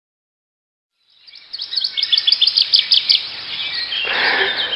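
Birds chirping, fading in after a second of silence: a quick run of high, repeated chirps, then a fuller noisy background with more scattered calls near the end.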